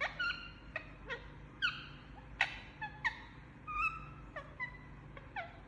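A sleeping parrot making about a dozen short, squeaky chirps at irregular intervals, many of them sliding down in pitch.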